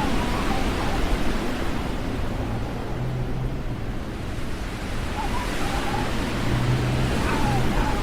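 Snowstorm wind rushing over the microphone, a steady loud noise with no breaks, and a low hum underneath from about three seconds in.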